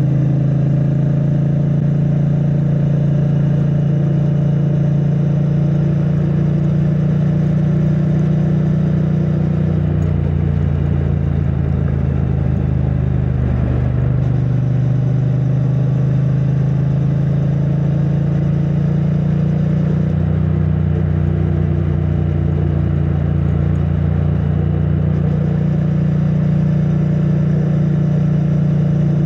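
2022 Triumph Bonneville T100's 900cc parallel-twin engine running through its stock exhaust while riding at a steady pace. The note wavers about ten to fourteen seconds in, then settles again. It is heard from a microphone inside the rider's backpack.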